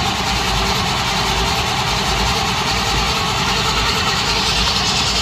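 Pontiac Firebird's engine running steadily at idle.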